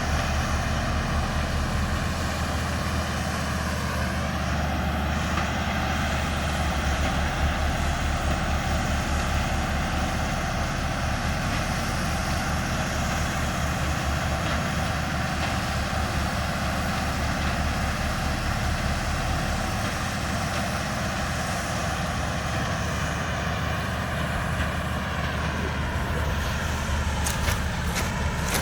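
Engine of heavy road-works machinery running steadily with a low, even hum. A few sharp clicks come near the end.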